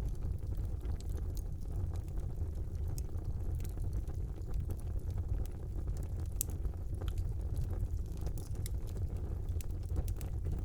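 Fire burning in a brick fireplace: a steady low rumble of flames with many scattered, sharp crackles and pops.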